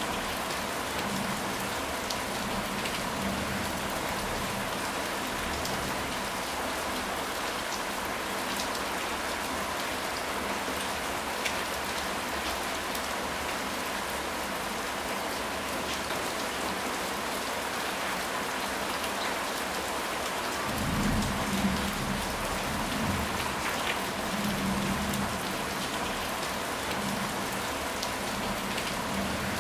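Steady rain falling on a surface, a constant hiss flecked with individual drop ticks. About two-thirds of the way through, a low rumble of distant thunder rolls for a few seconds.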